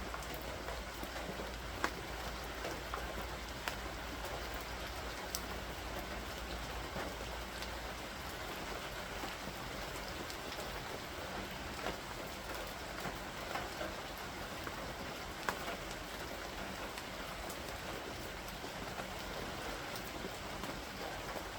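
Steady rain falling during a thunderstorm, with a few sharp single drop hits close by.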